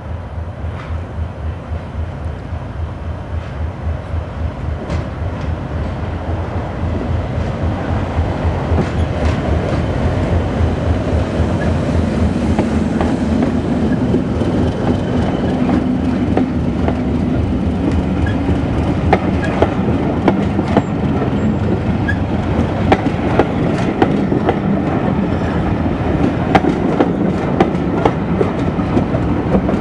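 A Class 37 diesel locomotive approaching and passing close by, its engine throbbing steadily and growing louder as it nears. About two-thirds of the way through, the coaches roll past with a rumble and repeated sharp clicks of wheels over the rail joints.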